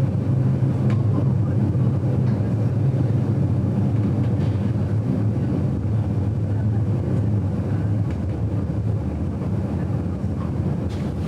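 Vintage railway carriage of the GoldenPass Belle Époque train running on the line, heard from inside the carriage: a steady low rumble from the wheels and running gear, with a few faint clicks. It eases a little in level about two-thirds of the way through.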